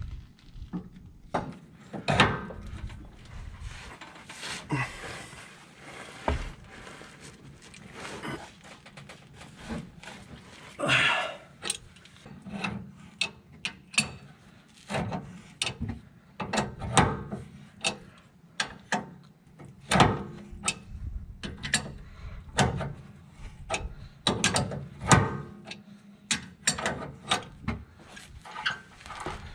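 Hand tools working on the truck's steering box: a ratchet wrench clicking in short runs, with irregular metal clanks and knocks.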